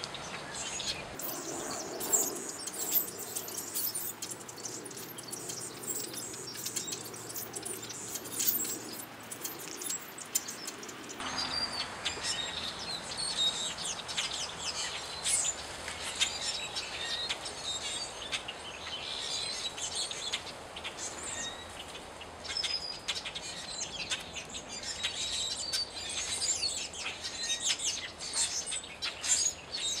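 Small birds chirping and calling throughout, many short high chirps overlapping in a busy chorus. The background noise changes abruptly about eleven seconds in.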